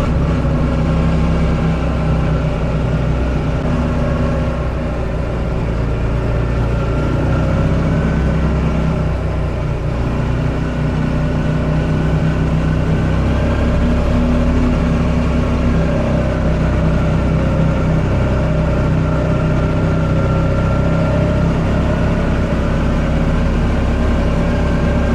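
Buggy engine running steadily under way, its pitch shifting slightly as the throttle changes.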